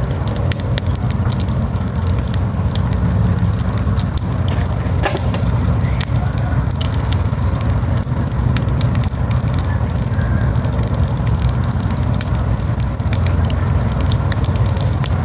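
Wood campfire burning, crackling with frequent sharp pops over a steady low rumble.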